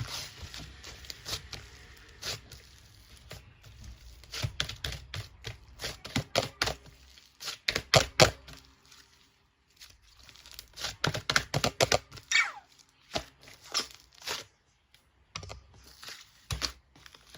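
Close-up crinkling, rustling and tearing of paper or plastic, in irregular clusters of sharp clicks and crackles, with a short lull about nine seconds in and a brief falling squeak about twelve seconds in.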